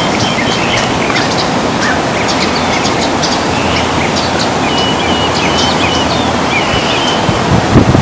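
Small birds chirping, with a run of short high trills about five seconds in, over a steady rushing noise.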